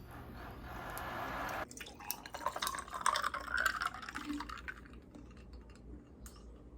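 Liquid being poured into a container, the pour growing louder for about a second and a half and stopping abruptly, followed by a couple of seconds of irregular dripping and splashing.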